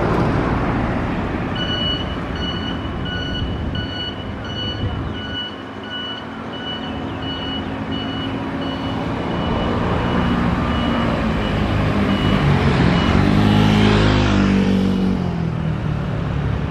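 A level-crossing warning alarm beeps in a steady pulse of just under two beeps a second over continuous road-traffic noise, then fades out about 13 seconds in. Near the end a vehicle engine passes close by, louder, its pitch rising and then falling.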